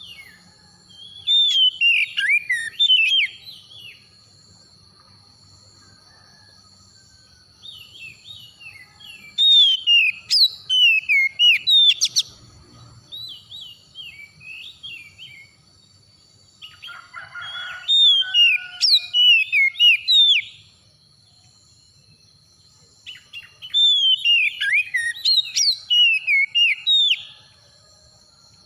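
Oriental magpie-robin singing in four bouts of rapid, sliding whistled phrases, with a few seconds of pause between bouts. A steady thin high tone runs behind the song.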